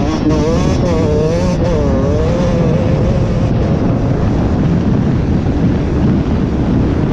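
Beta 125 RR two-stroke dirt bike engine riding under throttle, its revs rising and falling over the first three seconds, then holding a steadier, noisier drone.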